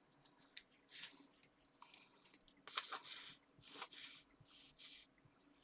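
Paper and card being handled: a few short, faint rustles and slides, the clearest about halfway through.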